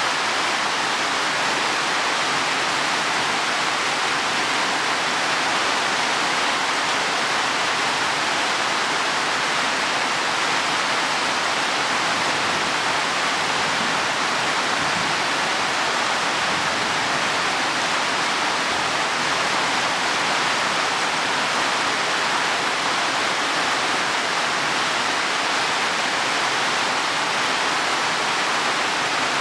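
Heavy rain falling steadily on leaves and soil, a dense even hiss with no letup.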